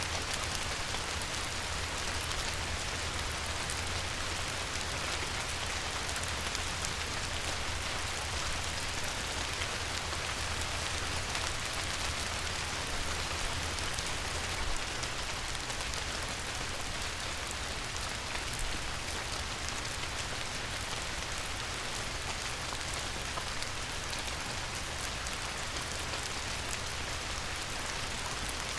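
Light rain falling on a river: a steady hiss of drops hitting the water, with fine scattered droplet ticks and a low rumble underneath.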